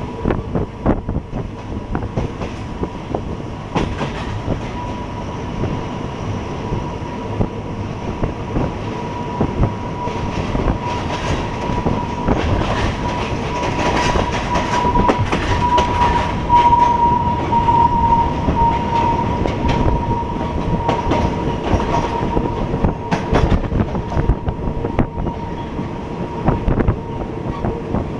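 Passenger train of Thailand's train 283 running along the line, its wheels clacking over rail joints with a dense rumble. A thin, steady high-pitched whine from the wheels rises through the middle and fades toward the end.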